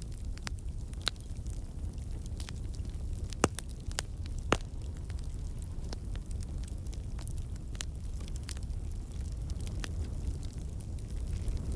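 Wood campfire burning, a steady low rumble of flames with frequent sharp crackles and pops as water and sap in the logs escape as steam. Two louder pops come about three and a half and four and a half seconds in.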